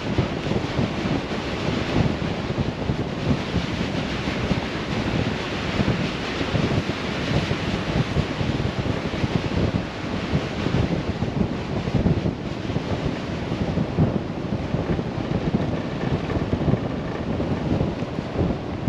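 Chevrolet Colorado ZR2 Bison driving slowly along a muddy dirt road: a steady rumble of tyres and running gear with many small knocks, on wet ground.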